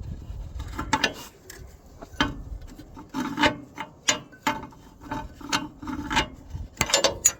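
Wrench working a bolt loose on an engine's mounting: a run of short scraping clicks and metal knocks, irregular at about two a second, with a quick cluster of louder knocks near the end.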